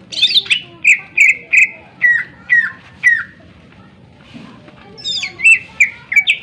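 Cucak ijo (green leafbird) singing loudly: a burst of sharp, ringing notes, then a run of short whistles that drop in pitch, about two a second. After a pause of about a second, a new burst of notes starts near the end.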